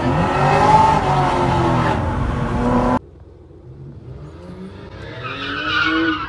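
Loud car engine revving, its pitch rising and falling, cut off abruptly about halfway through. A quieter car engine follows, rising in pitch and growing louder as it accelerates near the end.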